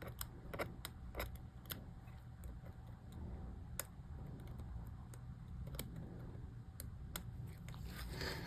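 Small, sharp, irregular plastic clicks from tiny MacBook keycap and scissor-mechanism parts being handled and pressed into the keyboard, over a low steady hum. A short scraping rustle comes near the end.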